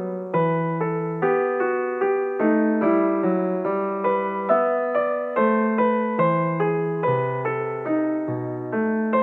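Background piano music: slow, steady chords struck about every half second to second, each ringing on.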